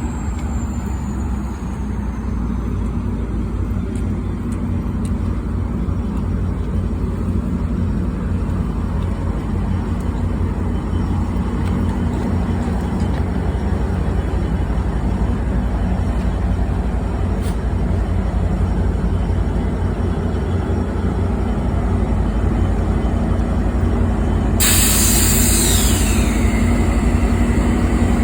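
Train at the station: a steady low engine rumble that grows slowly louder, then a sudden loud hiss of air about 25 seconds in, with a tone falling in pitch as it goes.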